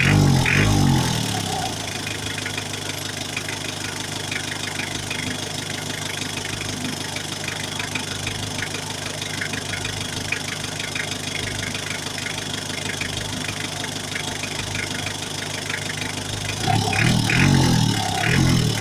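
Mitsubishi 4M40 four-cylinder diesel engine idling steadily, revved briefly at the start and again near the end.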